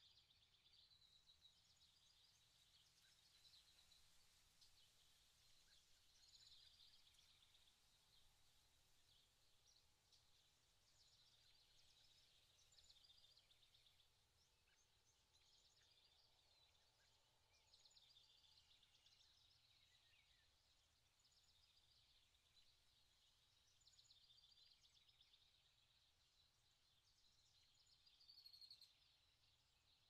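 Faint birdsong from small songbirds: short high chirps and trills repeating throughout, with a louder call near the end.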